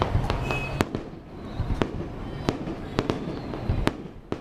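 Fireworks display: a run of sharp bangs from shells bursting overhead, irregular, about two a second, over a low rumble that eases about a second in.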